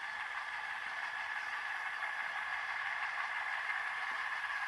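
OO-gauge Oxford Rail Janus diesel shunter's DCC sound decoder playing a steady engine sound through its small onboard speaker. It is thin, with no bass, and carries a constant whine.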